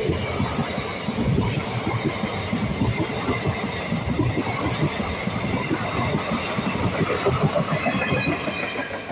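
Passenger coaches of an express train running past at speed, their wheels clattering rapidly over the rail joints and the level crossing. The sound starts to drop off near the end as the last coach goes by.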